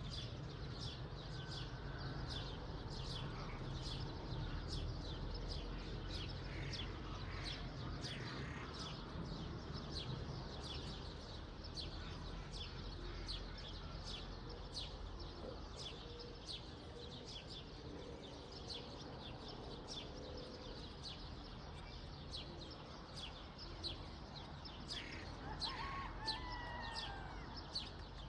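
Many small birds chirping, with short high calls following each other quickly throughout, and a lower warbling call near the end. A steady low rumble runs underneath.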